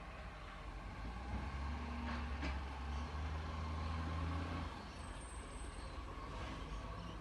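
Garbage truck's engine drones steadily louder for about three seconds from a second in, then drops back to a low running sound.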